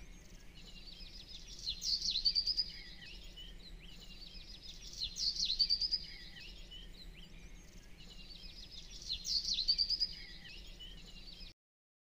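Songbird chirping and trilling in three short bursts about three and a half seconds apart, over a faint steady hiss; the sound cuts off abruptly near the end.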